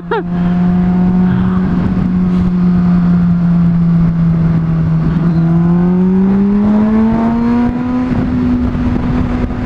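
Honda CBR600RR inline-four engine running at a steady pitch, then rising smoothly from about halfway through as the bike accelerates, and holding at the higher pitch near the end.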